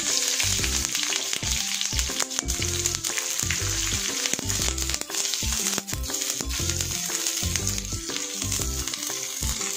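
White onion rings sizzling as they fry in hot cooking oil in a nonstick wok, being stirred and turned with chopsticks.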